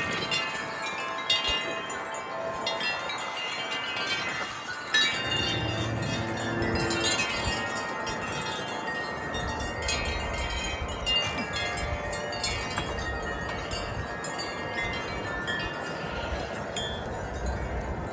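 Several tuned metal wind chimes ringing in gusty wind, with many overlapping notes struck again and again. A low wind rumble on the microphone comes in at times from about five seconds in.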